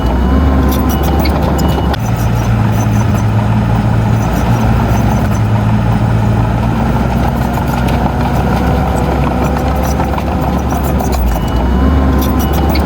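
Heavy diesel engine of earth-moving equipment running steadily, with a short rise in pitch near the start and again near the end, and light clanking over it.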